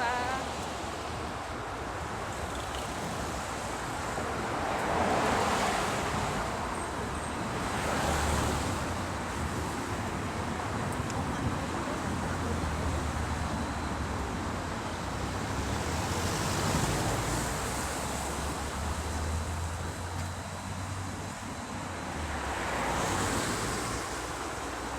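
Road traffic passing by: several vehicles swell up and fade away one after another over a steady rumble, with wind on the microphone.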